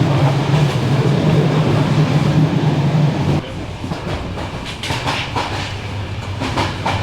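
Passenger train in motion: a loud, steady rumble of wheels and carriage running on the rails. About halfway through it drops suddenly to a quieter level, with scattered clicks and knocks after that.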